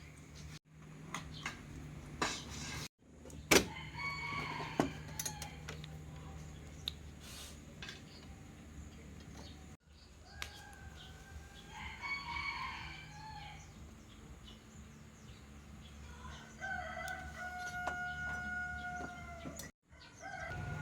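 A rooster crowing three times, the last crow the longest with a long held note near the end. Scattered light clicks and taps run through it, the loudest a sharp tap about three and a half seconds in.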